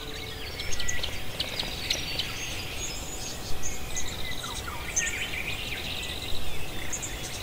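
Several songbirds chirping and trilling over a steady outdoor hiss, with short calls and rapid trills coming and going.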